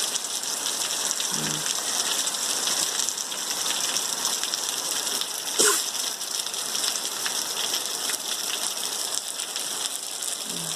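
Steady rain falling, an even hiss of drops on the ground and plants. A single brief sharp knock sounds a little past halfway.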